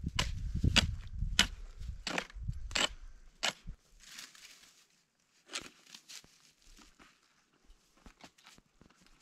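Footsteps crunching in snow at a walking pace, a step about every 0.7 s with a low rumble under them, then fainter and more scattered after about four seconds.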